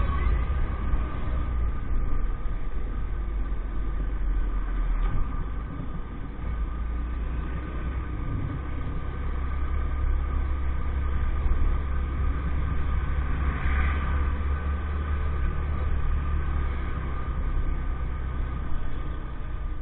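EAYS Pro 50cc moped running at a steady cruising speed, with a steady whine over heavy wind rumble on the microphone.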